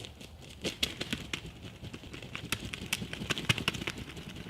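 Irregular crunching and thumping in dry leaves and brush, several uneven hits a second with no steady rhythm.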